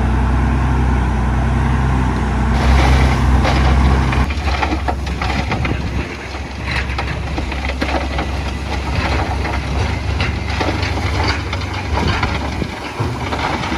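A heavy diesel machine's engine running steadily. From about two and a half seconds in, loose rock crunches and clatters in many small cracks as the load shifts, with the engine still running underneath.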